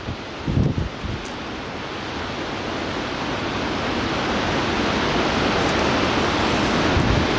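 Fast river water rushing through a standing wave and rapids, a steady wash of noise that grows gradually louder. A brief low thump about half a second in.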